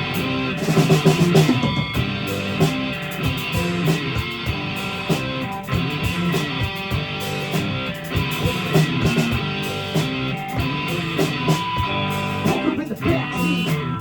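Guitar strummed live, the instrumental intro of a song before the singing comes in.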